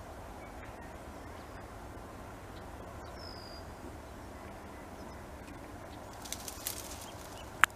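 Outdoor background with a steady low rumble and a bird giving one short, high, falling whistle about three seconds in. Near the end come a few light clicks and then one loud sharp click.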